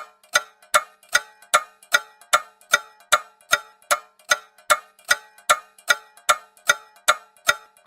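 Clock ticking steadily, about two and a half sharp ticks a second, each with a short metallic ring.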